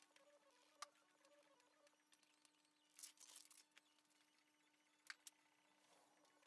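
Near silence, with a faint steady hum, a few isolated faint clicks, and a brief rustle about three seconds in.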